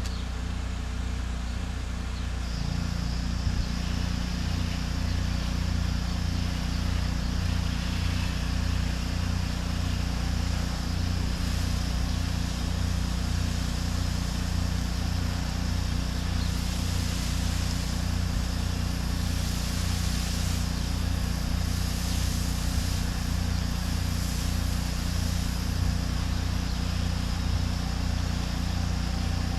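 Pressure washer's engine and pump running steadily under load while spraying a house wall. A high steady hiss joins about two and a half seconds in.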